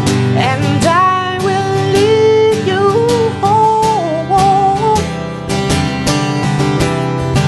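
Instrumental passage of a worship song: acoustic guitar strummed in a steady rhythm, with a wavering melody line over it that fades out about five seconds in.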